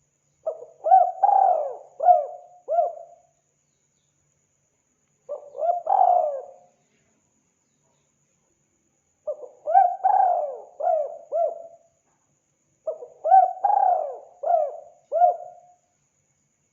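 Spotted dove cooing in four phrases a few seconds apart. Each phrase is a short run of several low, bending coos, and the second phrase is shorter than the others.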